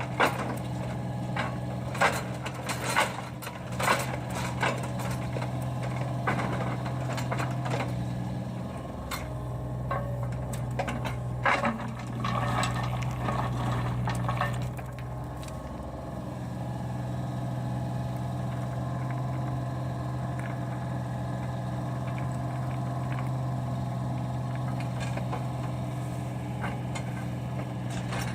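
Compact excavator's diesel engine running steadily, with sharp knocks and clanks over the first dozen seconds, then just the engine.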